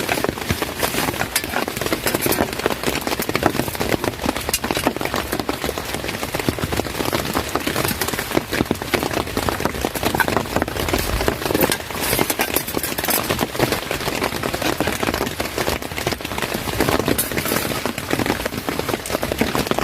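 Heavy rain: a dense, even stream of drops striking a surface.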